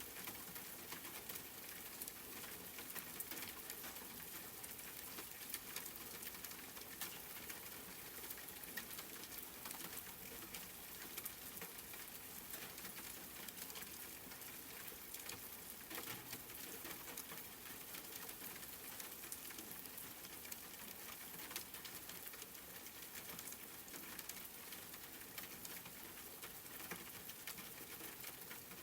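Steady rain falling, with a patter of individual drops ticking through it.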